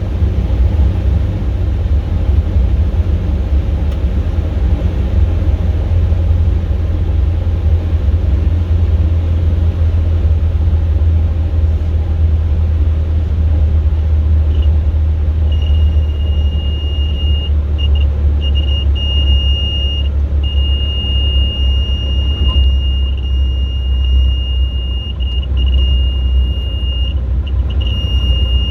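Robin DR400 cabin noise in a glide with the engine throttled back to idle: a steady low rumble of engine, propeller and airflow. About halfway through, a high-pitched stall warning starts beeping on and off, then sounds almost continuously, the sign of the aircraft flying slow near the stall, as in the landing flare.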